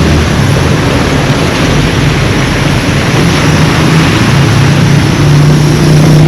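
A motor vehicle's engine running close by on a road, its hum growing louder near the end as it approaches, over a steady loud rushing noise.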